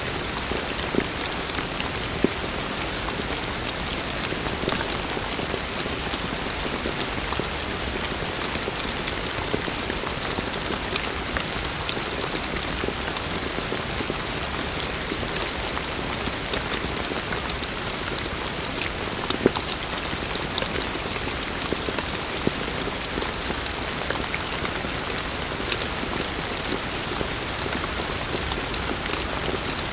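Heavy rain falling steadily: a dense, even hiss of rain with many small drop ticks and a few louder drop hits.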